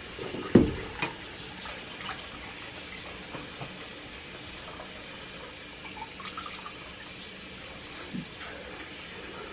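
Tap water running steadily into a sink as a puppy is bathed in it, with one sharp knock about half a second in and a few fainter knocks after it.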